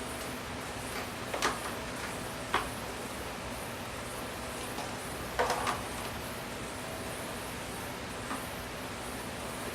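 A handful of short, light knocks and clicks, as of parts being handled and fitted, scattered over a steady background hiss. The loudest is a quick cluster of knocks about halfway through.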